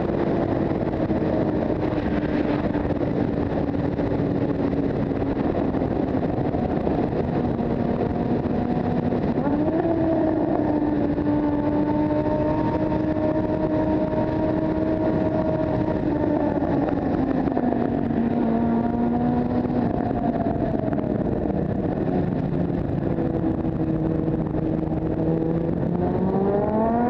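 Motorcycle engine running under way, its note over a steady rushing of wind and road noise. The engine pitch sinks slowly, steps up about a third of the way in, settles lower again past the middle, and climbs sharply near the end as the bike accelerates.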